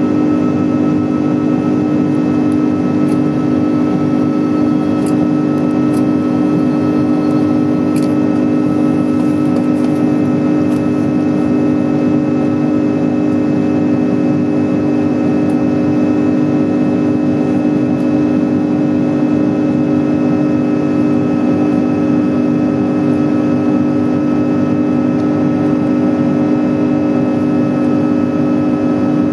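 Jet airliner's engines heard from inside the cabin during the climb after takeoff: a loud, steady drone with a fixed low hum and a few higher steady tones over rushing noise.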